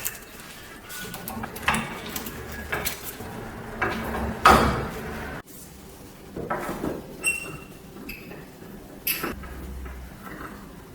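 Metal parts of an antique hand-crank grinder being handled: scattered knocks, scrapes and clinks, with a louder clatter about halfway through and an abrupt cut just after. Two short metallic rings follow.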